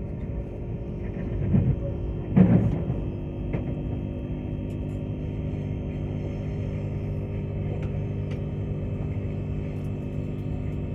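Queensland Rail electric Tilt Train running at speed, heard inside the passenger carriage: a steady rumble with a low, even hum. Two louder thumps come about one and a half and two and a half seconds in, followed by a few faint clicks.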